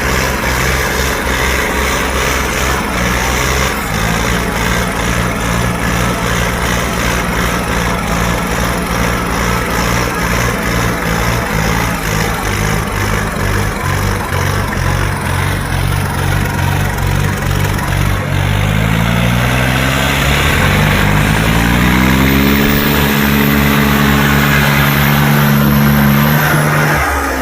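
Tractor engine running steadily, then revving up over a few seconds about two-thirds of the way in and held at high revs under load, before dropping back right at the end.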